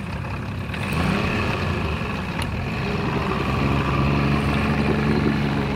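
A small motor running steadily over a noisy background, with a steadier hum coming in about three seconds in.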